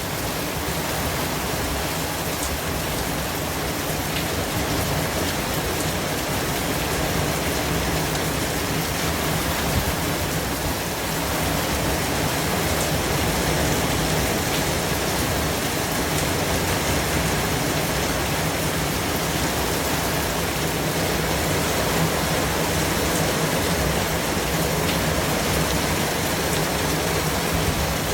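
Steady white noise: an even, rain-like hiss spread across all pitches, with a few faint scattered ticks.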